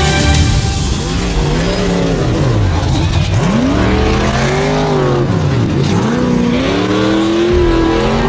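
Off-road racing vehicle's engine revving hard, its pitch climbing and dropping several times in quick succession as the throttle is worked.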